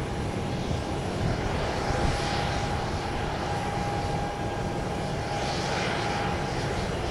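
Jet airliner engines running, a steady rushing drone with a thin, even tone held through it.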